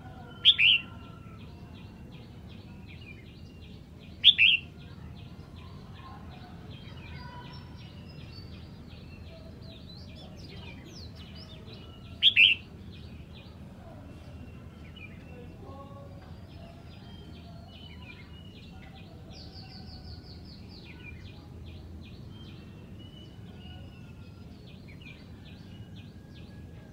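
Red-whiskered bulbul singing: three loud, short, high phrases, the second about four seconds after the first and the third about eight seconds later. Faint, rapid twittering runs underneath throughout.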